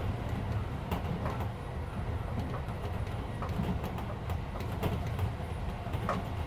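Interior running noise of a Keisei 3400-series electric commuter train at speed: a steady low rumble, with wheels clicking sharply over rail joints now and then. The car's air conditioning is running underneath.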